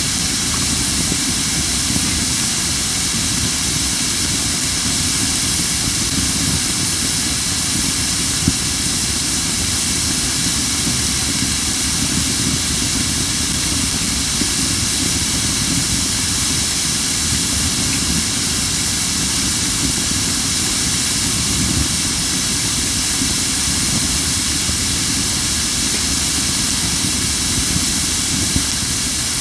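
Crape myrtle firewood burning with a loud, steady hiss of steam and only a couple of small pops: the wood is not fully dry, so moisture boils out instead of crackling.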